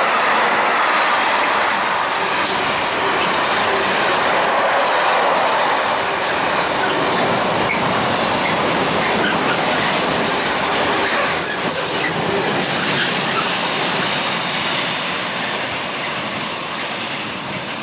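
Container freight train's wagons passing close by, a steady loud rush of wheels on the rails that eases off near the end as the last wagons go by.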